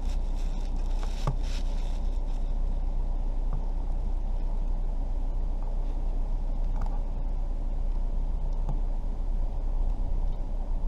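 Steady low rumble of a running vehicle, with a few light clicks about a second in.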